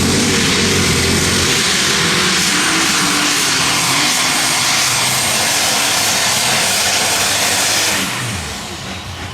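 Unlimited super stock pulling tractor's turbocharged diesel engine running flat out during a pull: a loud, steady roar with a thin high whine over it. About eight seconds in the sound drops off as the run ends.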